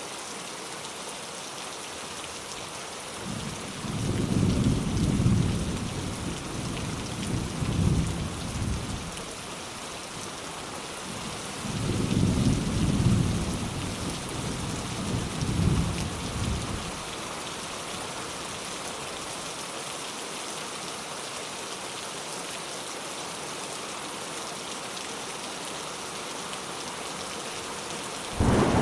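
Steady rain with light thunder: two low rolls of thunder, each rumbling for about five seconds, and a sharper clap of thunder breaking in right at the end.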